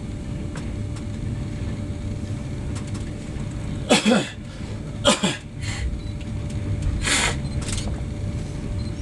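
Passenger train running, a steady low rumble heard from inside the carriage. Several short, louder sounds break in over it: two about four and five seconds in, and two hissing ones around seven seconds.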